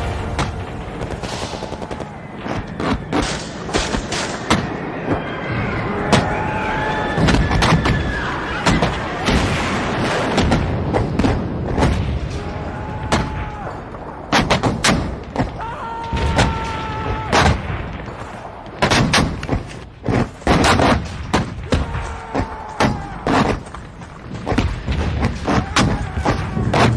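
Battle sound effects: gunfire and repeated explosions, many sharp shots and booms across the whole stretch, with men shouting in the middle of it.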